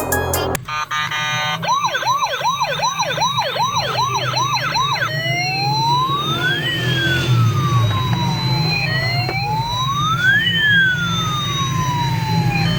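Toy police car's electronic siren sound effect: a fast yelp of about three sweeps a second, then a slow rising and falling wail, over a steady low hum.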